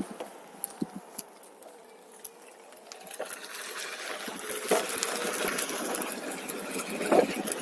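Tyre noise from a Onewheel rolling along a trail, with scattered knocks and rattles from bumps. The noise grows louder about three seconds in.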